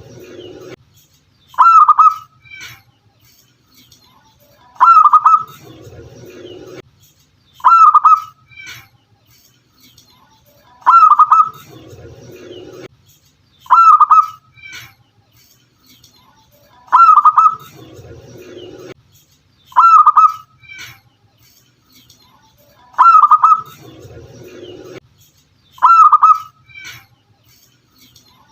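Zebra dove (perkutut) cooing: a short, loud burst of quick coo notes about every three seconds. A softer, lower sound comes in every six seconds.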